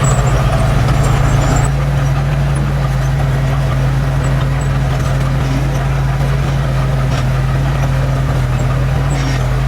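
Diesel engine of heavy earthmoving machinery running steadily, a little louder for the first couple of seconds.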